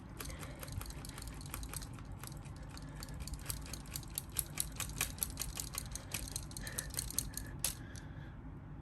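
Rapid, irregular clicking and rattling of plastic Lego Technic parts as the skidder model's mechanisms are worked by hand, with one sharper click near the end.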